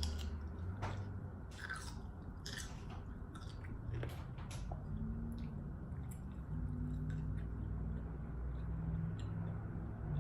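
A person biting into and chewing a pickle with a slice of pepperoni, with several crisp crunches in the first half.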